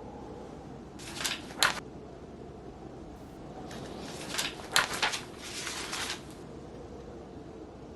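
Book pages being turned twice: a short paper rustle about a second in and a longer one with several flicks around the middle. Underneath is a steady low blizzard wind.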